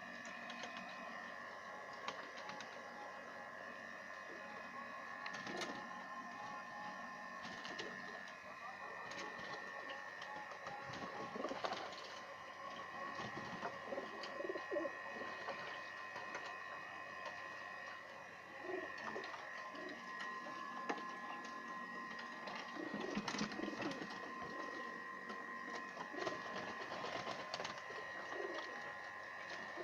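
Pigeons cooing, with repeated low calls through the whole stretch over a steady high-pitched tone.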